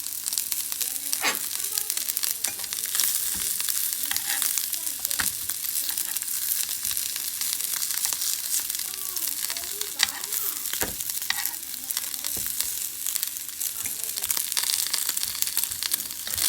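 Food sizzling steadily in a hot frying pan, with occasional sharp clicks of a utensil stirring it.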